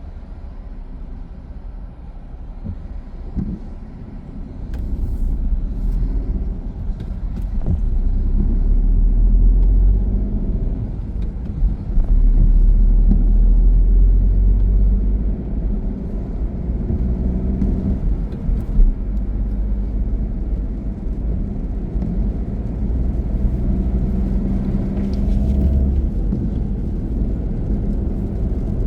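Car driving on the road: steady low engine and tyre rumble that grows louder about four seconds in, then eases slightly after the middle.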